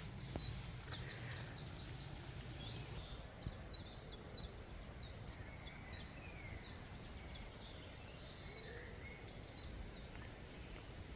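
Small birds chirping: a steady run of short, high, falling notes, with a low rumble of background noise underneath.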